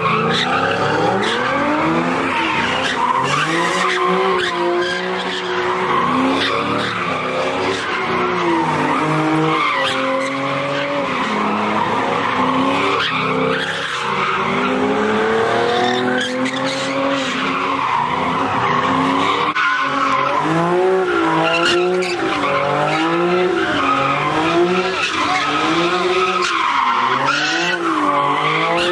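Car doing a burnout or donuts: the engine revs up and down over and over while the tyres squeal continuously.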